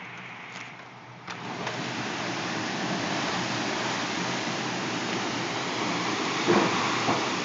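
Torrential rain pouring down in a steady roar, which turns sharply louder after a click about a second and a half in and then holds. A short knock comes near the end.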